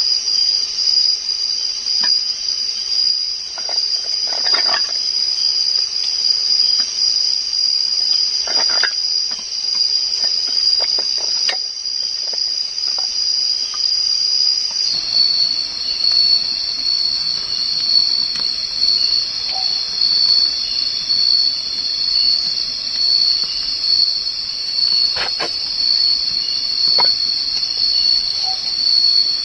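Insects chirring as one continuous high-pitched tone that drops slightly in pitch about halfway through, over a faint hiss, with a few scattered soft clicks.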